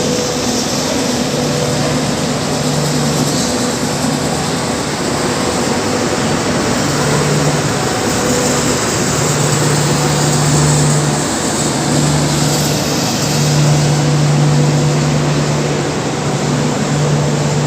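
Steady loud noise of trains at a railway station platform, with a low hum that fades in and out several times.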